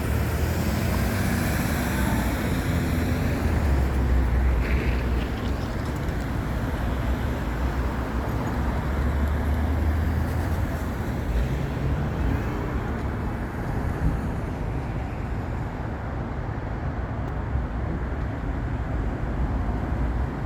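Steady freeway traffic noise: cars and trucks rumbling past, with louder passes now and then.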